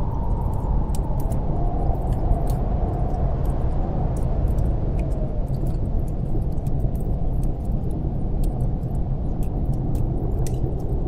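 Snowstorm wind blowing hard with a deep, steady rush and a wavering howl that slowly falls in the first few seconds, over the irregular snapping crackles of a wood fire in a fireplace.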